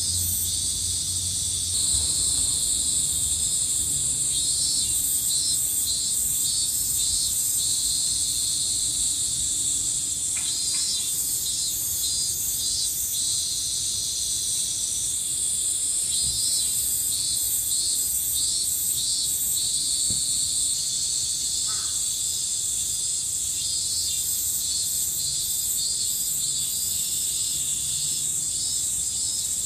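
A loud insect chorus: a steady high-pitched buzz, with trains of rapidly pulsing calls that come and go every few seconds.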